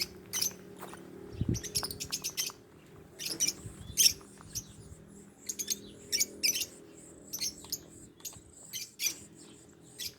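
Small birds chirping: many short, high-pitched chirps, some in quick runs, over a faint steady low hum.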